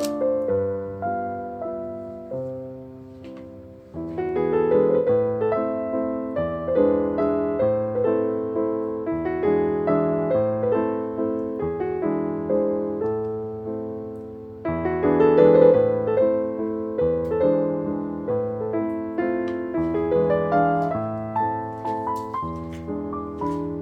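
Background piano music: a slow, gentle piece of note-by-note phrases, softer around four seconds in and again near fourteen seconds, then swelling with a new phrase just after.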